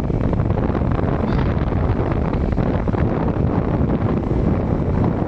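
Steady wind rush over the microphone of a moving motorcycle, with the engine and road noise underneath.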